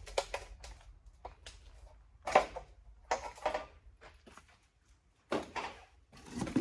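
Irregular knocks and scuffs of someone moving about and handling things, in short clusters with the loudest knock about two and a half seconds in.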